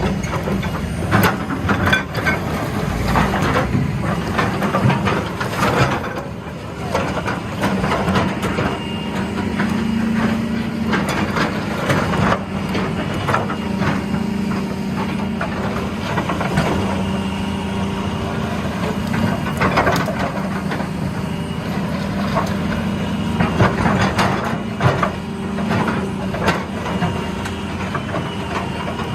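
Diesel engines of a Hitachi excavator and a mud-stuck truck running under load: a steady drone with frequent knocks and clanks throughout.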